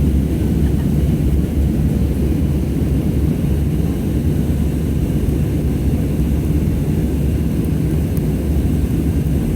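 Airliner cabin noise: a steady, low rumble of the jet engines and airflow, heard from inside the passenger cabin.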